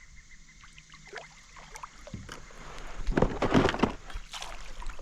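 Water splashing and knocking against a kayak as a hooked fish thrashes at the surface beside it, building up from about two seconds in and loudest near the middle.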